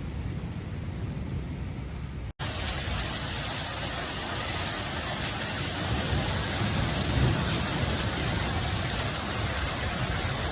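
Heavy storm rain pouring, a steady rushing hiss. It cuts off abruptly about two seconds in, and a louder stretch of rain follows.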